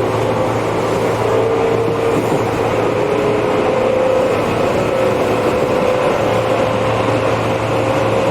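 Tobu 8000 series electric train running, heard from inside the car: a steady rumble with a motor and gear whine that climbs slowly in pitch as the train gathers speed.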